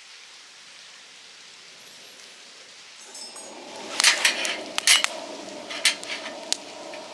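A few sharp clinks and knocks, as of small hard objects being handled, over a steady hiss that starts about three seconds in.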